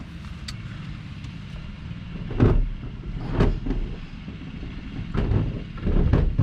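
Several dull knocks and thumps of plastic dashboard parts being handled and fitted in a car, over a steady low hum.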